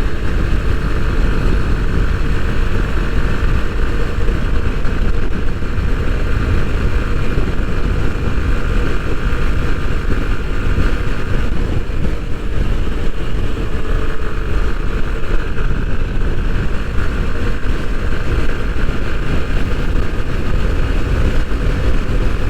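Bajaj Pulsar NS160 motorcycle at steady highway cruise: its single-cylinder engine running evenly under heavy wind rumble on the onboard microphone.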